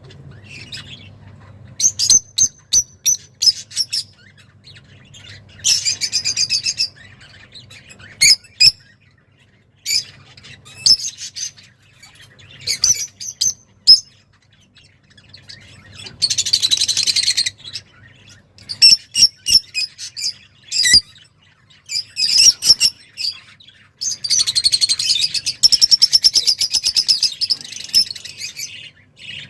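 A small songbird of the kind Arab bird keepers call 'roz' sings in an excited way, in short bursts of sharp, high chirps and trills with brief pauses between them. It gives a longer fast trill midway through and another near the end.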